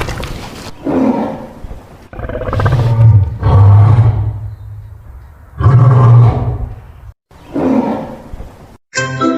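A lion roaring and grunting in a series of about five deep calls, each a second or so long with short pauses between. A tinkling jingle starts near the end.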